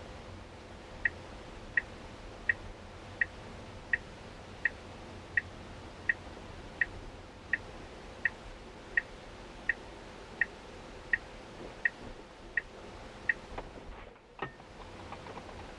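Short high electronic beeps repeating evenly about every 0.7 seconds, eighteen in a row over a steady background hiss, followed near the end by a single click.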